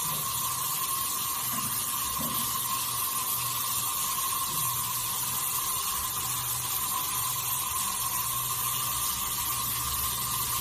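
Water running steadily, an even rushing hiss with a low hum underneath.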